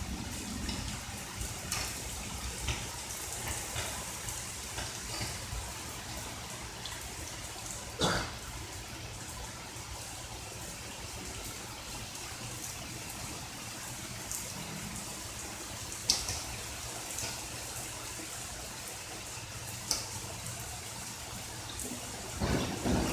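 Steady light rain with water trickling and dripping, and a few sharp, louder drips spread through. Near the end the rain starts to grow louder.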